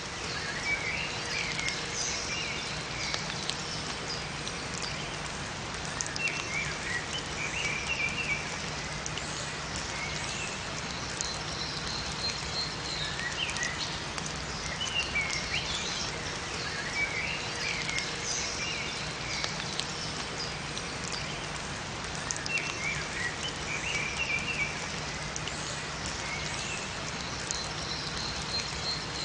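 Steady hiss of rain falling in a forest, with small songbirds chirping in short groups of quick notes several times over.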